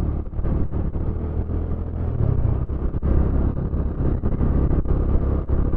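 Motorcycle engine running while riding, its note shifting about two seconds in, with wind noise on the helmet microphone.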